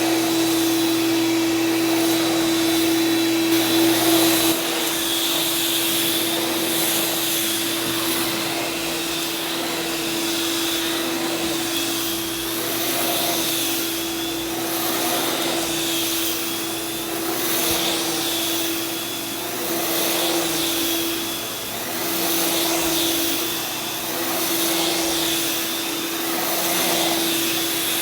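Vacuum cleaner running on carpet, pre-vacuuming dry soil: a steady motor whine over suction noise. The sound swells and dips every two seconds or so, and a lower hum drops away about four seconds in.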